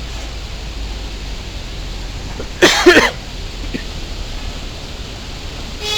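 Steady outdoor noise with a low rumble, broken by one short, loud vocal burst from a person about two and a half seconds in.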